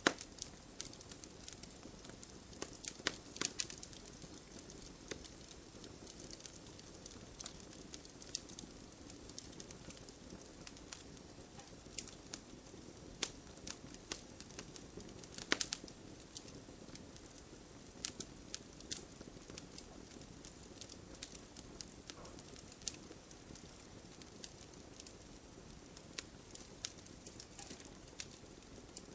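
Wood bonfire crackling and popping in irregular sharp snaps, a few louder pops among them, over a steady soft patter of rain.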